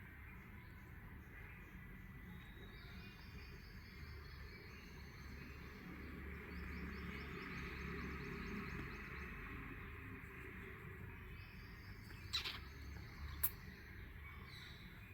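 A cockatiel chirping faintly in several runs of rapid, high notes over a steady low background hum. Two sharp clicks near the end are the loudest sounds.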